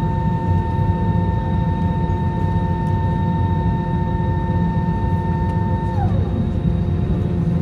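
Jet engine noise inside an Airbus A321neo cabin from its Pratt & Whitney PW1133G geared turbofans: a steady low rumble with several high whining tones. About six seconds in, the strongest whine slides down in pitch and fades as the engines spool down.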